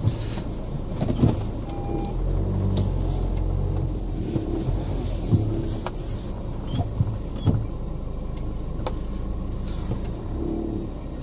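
Renault Grand Scénic's diesel engine running at low speed while the car is manoeuvred, a steady low hum whose pitch shifts a little, with scattered clicks and knocks.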